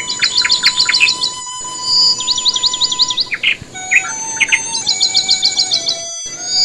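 Small birds chirping: quick runs of rising high chirps, several a second, mixed with lower sliding notes over long steady whistle-like tones, broken twice by a sudden brief gap.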